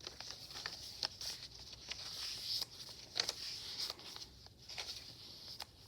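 Pages of a handmade paper journal being turned and handled: faint rustling with scattered soft ticks and crinkles of paper.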